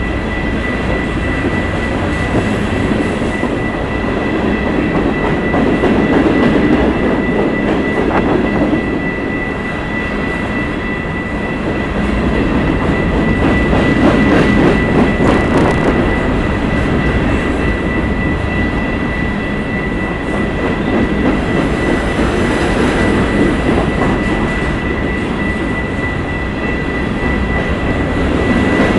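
Empty covered hopper cars of a freight train rolling past on the rails: a steady loud rumble and rattle of wheels, with a steady high-pitched whine running throughout.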